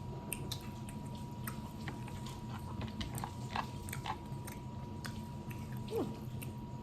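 Close mouth sounds of eating seafood-boil crab and shrimp: chewing with irregular wet smacks and small clicks. A faint steady tone runs underneath.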